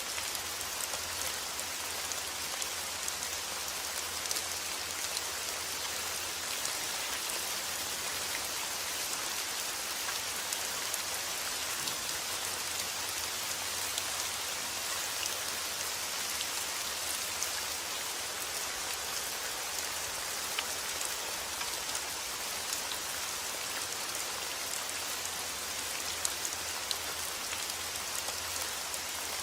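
Steady rain falling, with a dense hiss and many small drop ticks on a hard surface, over a faint low hum.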